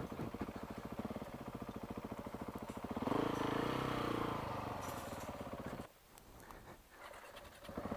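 KTM 690's single-cylinder engine idling with an even, rapid beat. About three seconds in, the revs pick up slightly. Near the end the sound drops away almost completely for a second or two, then returns.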